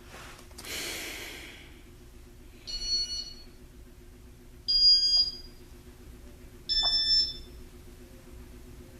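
Three short high electronic beeps about two seconds apart, each starting with a click, from a 1985 Casablanca Panama 5 ceiling fan's control stepping through its demo mode, over the fan's steady low hum. A brief hiss about a second in.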